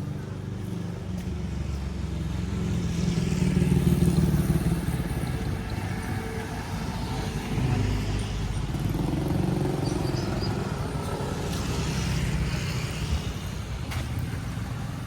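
Road traffic: motor vehicles driving past close by, their engine and tyre noise swelling to a peak about four seconds in and again around ten to twelve seconds.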